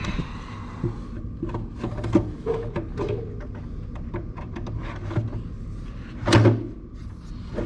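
Wooden cabinet drawer being fitted back onto its drawer slides and pushed along them, with a series of clicks and knocks and a louder clatter about six seconds in.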